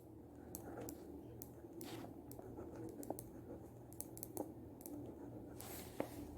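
Faint, irregular small clicks and light scratches, a dozen or so spread over several seconds, over a low steady hum.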